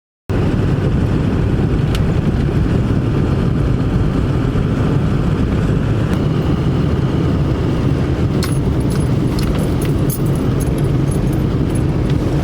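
Steady, loud vehicle running noise, a low rumble of engine and road. Light jingling and clicking of keys join in during the last few seconds.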